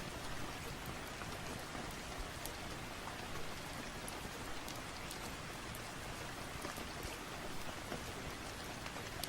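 Steady rain, with faint scattered crackles and ticks from a log fire.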